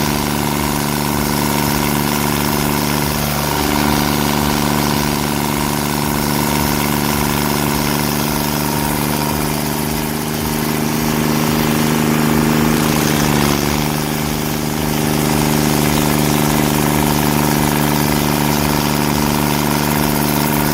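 Engine of heavy land-clearing machinery running steadily at a constant speed, its level dipping briefly about ten seconds in.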